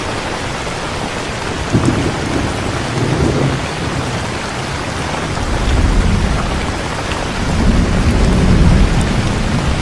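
Heavy rain falling steadily, with low rumbles of thunder rolling through: a first sharp onset a couple of seconds in, then longer rumbles swelling from about halfway and loudest near the end.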